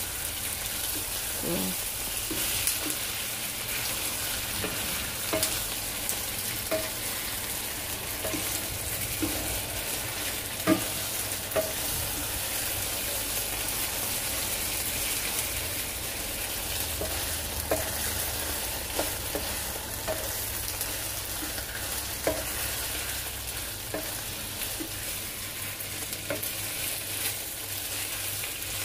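Marinated beef strips with onion and garlic sizzling in oil in a nonstick wok, with a steady hiss, while a wooden spoon stirs them and knocks lightly against the pan now and then.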